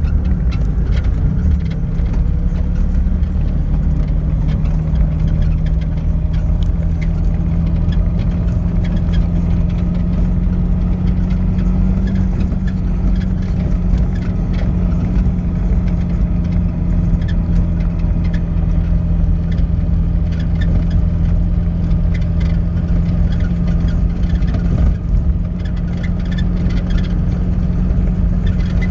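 Lada Niva engine running steadily under load while driving on a rough dirt track, a constant low engine drone with scattered small knocks and rattles.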